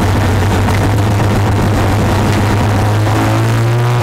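1973 Mazda RX-4 race car's rotary engine running, heard from inside its cabin as it pulls away at low speed, the pitch rising a little near the end.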